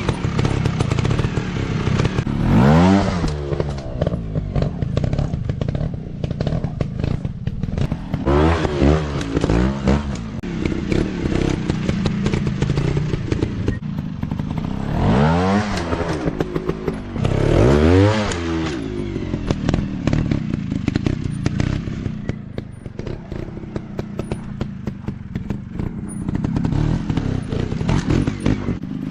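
Off-road dirt bike engines revving in short blips, the pitch climbing and falling again every few seconds over a steady low running note, with knocks and clatter in between.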